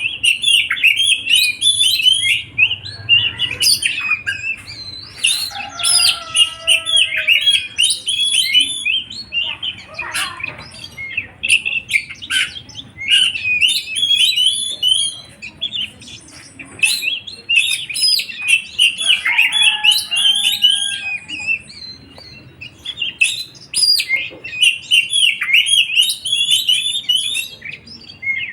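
Songbird singing in rapid, busy chirping and twittering phrases with short gaps. A few lower gliding whistles come in twice.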